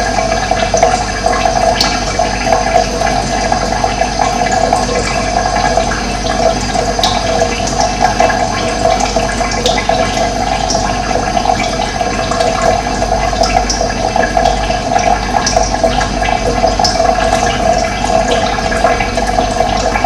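Running water rushing steadily, with no break or change in level.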